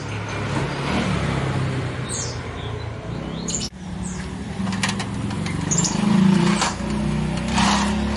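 Small birds giving a few short, high, falling chirps over a low, steady drone, with occasional clicks.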